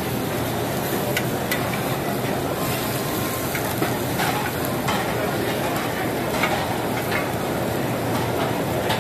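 Oyster omelettes sizzling steadily on a large flat griddle, with sharp clacks and scrapes of flat metal spatulas against the griddle plate now and then as they are pressed and turned.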